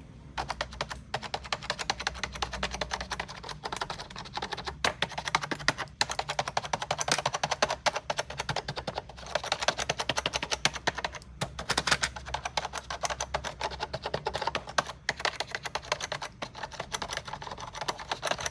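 Vintage computer keyboard being typed on in a fast, continuous stream of key clicks, with a few brief pauses.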